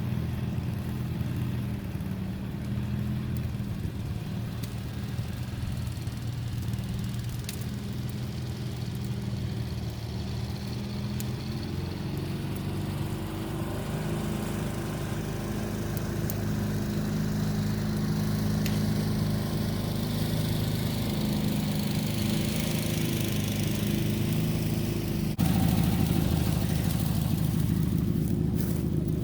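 An engine running steadily at a low, even idle, getting slowly louder, then stepping up abruptly to a louder, rougher sound about three-quarters of the way through.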